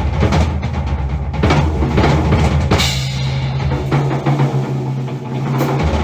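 Drum kit played solo: a fast, dense run of bass drum and snare hits over ringing low drums, with a bright crash about three seconds in.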